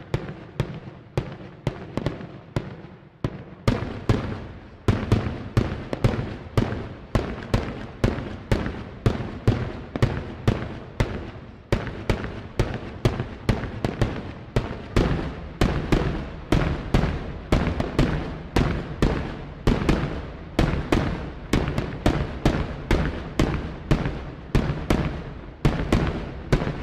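Daylight fireworks display: a rapid, regular series of loud bangs, somewhat under two a second, each with an echoing tail, over a continuous crackle.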